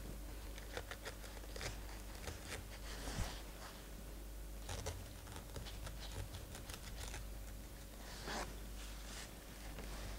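Small kitchen knife cutting along the inside of a halved pineapple's skin: faint, irregular scratching and cutting strokes through the fibrous flesh, with a few louder strokes.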